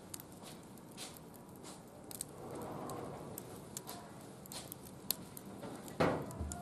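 Small wood fire crackling, with scattered sharp pops and a louder knock near the end.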